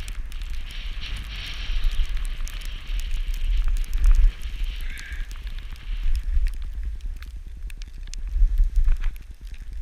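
Wind buffeting the microphone in a gusting low rumble, with a hiss of skis sliding on snow that fades out about six seconds in, and scattered small clicks and crackles.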